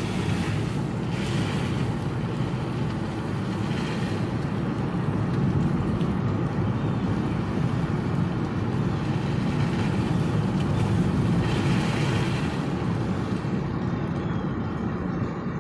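Steady rush of a rain-swollen creek in flood, a constant low churning with a few brief swells.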